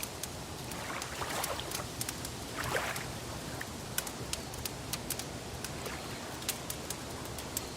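Wood fire crackling, with irregular sharp pops and snaps over a steady hiss, and soft swishes of water lapping now and then.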